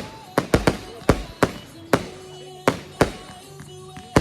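Fireworks going off in a quick, uneven series of sharp bangs, about eight in four seconds, over music playing for the display.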